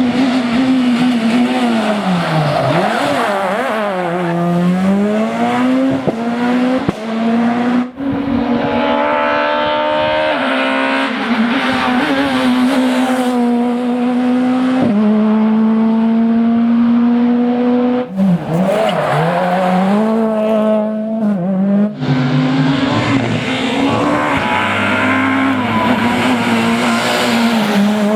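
Super 2000 rally cars' naturally aspirated four-cylinder engines revving hard, the pitch climbing and dropping through gear changes and lifts. Several cars follow one after another with sudden cuts between them.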